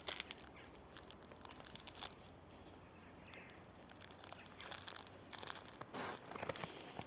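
Faint crinkling and rustling of packaging being handled, with a few light clicks. It is quieter in the middle and picks up again near the end.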